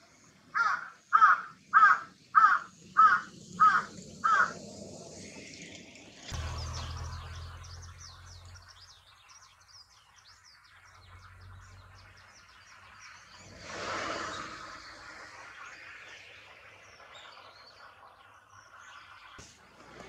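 A waterbird calling loudly: seven harsh calls in quick succession, about two a second, the last few a little quieter. After that, low wind rumble and faint, thin bird calls.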